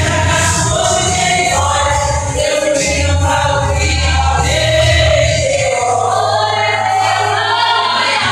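Choir singing a gospel hymn over a steady bass accompaniment.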